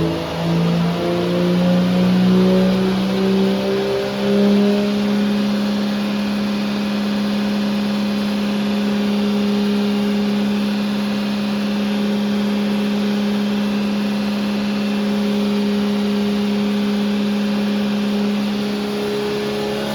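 Toyota 2JZ straight-six engine running under load on a chassis dyno. Its note climbs over the first few seconds, then holds at one steady pitch for the rest.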